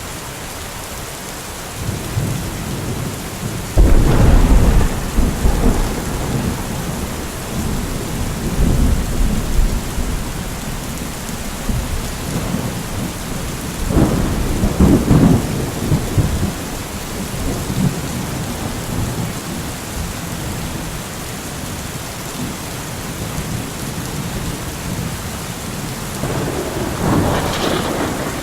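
Steady rain falling through a thunderstorm. A loud thunderclap breaks suddenly about four seconds in and rolls on for several seconds, another rumble comes about halfway through, and a third builds near the end.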